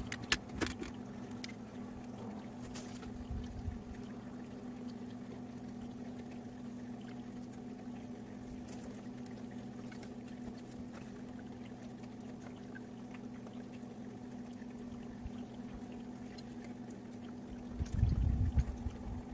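A steady low electrical or mechanical hum, with a few light clicks early on and a brief low rumble or thump near the end.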